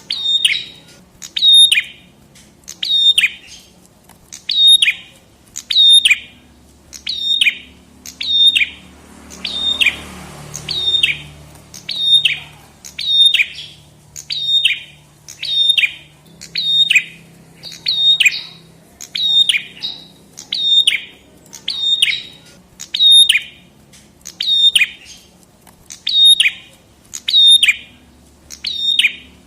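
A prenjak kepala merah (red-headed prenjak, a small songbird) repeats one sharp, downward-sweeping chirp over and over, a little more than once a second, in a steady rhythm. There is a brief hiss about ten seconds in.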